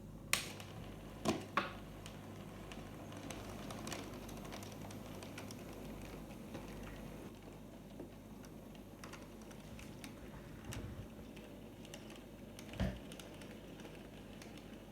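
Hornby OO gauge model steam locomotive (Peckett W4) running on model track: irregular small clicks and ticks, a few louder knocks, over a faint steady hum.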